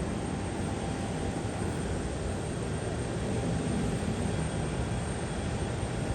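Steady rumble of a jet airliner's engines, with a faint steady whine over it.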